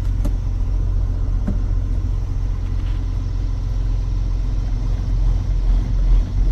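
John Deere 6810 tractor's six-cylinder diesel engine running steadily with a low rumble while the tractor is driven, with a couple of light clicks early on.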